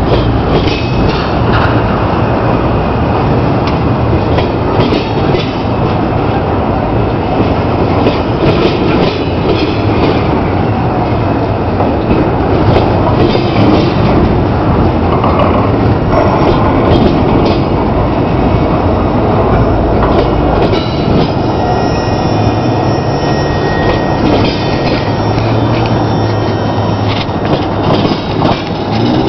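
Freight train cars rolling past, loud and steady, with wheels clicking over rail joints. High wheel squeal joins in during the last third.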